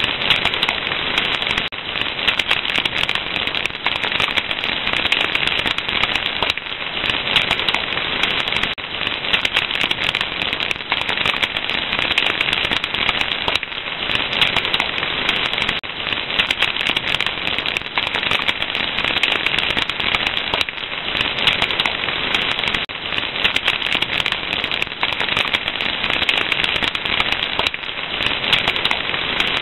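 Fire crackling steadily: a dense, unbroken stream of small pops and snaps over a soft hiss.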